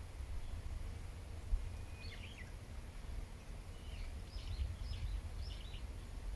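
Wild birds chirping: a short call about two seconds in, then a quick run of high chirps over the last couple of seconds, over a steady low rumble.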